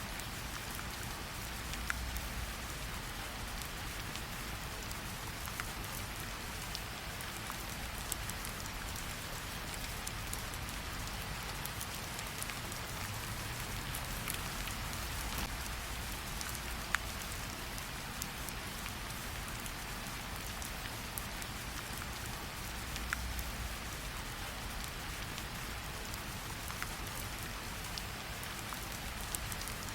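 Steady rain, with occasional single sharp crackles of a wood fire.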